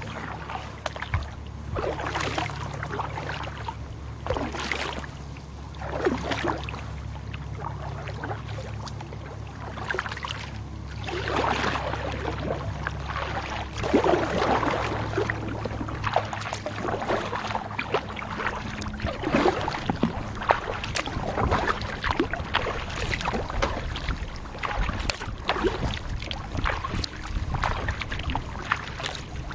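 Kayak paddle strokes dipping and splashing in the river, a stroke every second or two, with water dripping between them.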